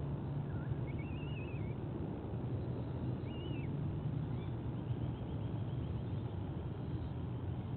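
Bird calls over a steady low rumble: a warbling call about a second in, a shorter one about three seconds in, then a quick run of short repeated high notes.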